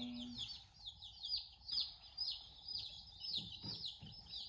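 A box of mail-shipped day-old meat chicks peeping continuously, many quick, high, falling cheeps a second.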